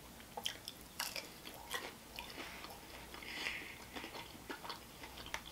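Biting into and chewing a fried breaded mozzarella stick: a few crisp crunches about half a second, one second and two seconds in, then quieter chewing.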